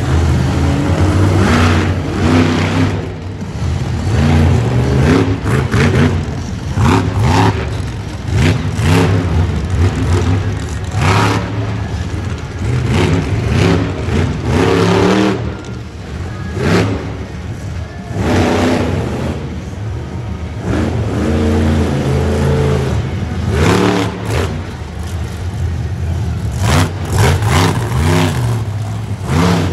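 Monster truck engine revving hard again and again, its pitch rising and falling in repeated sweeps over a steady low drone, with frequent sharp bangs.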